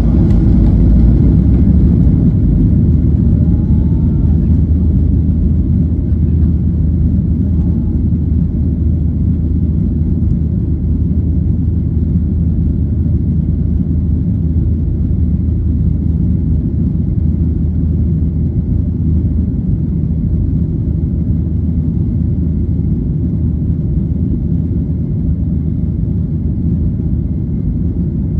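Boeing 737 airliner's jet engines and airflow heard from inside the passenger cabin during takeoff, a loud steady low rumble that eases slightly after the first few seconds.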